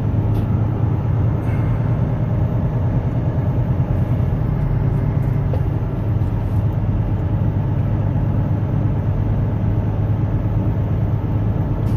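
Truck engine and tyre noise heard from inside the cab, a steady low drone as the truck rolls slowly over hard-packed snow.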